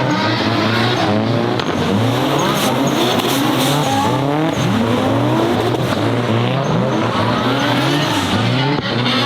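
Nissan Silvia S15's swapped Toyota 2JZ straight-six revving up and down over and over while drifting, with tyres squealing.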